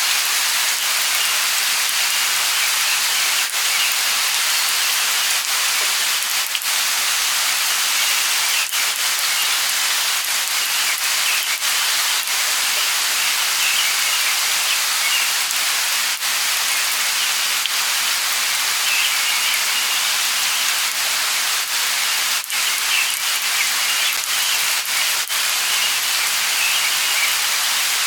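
Light rain falling in a steady hiss, with scattered drips. Birds chirp every few seconds.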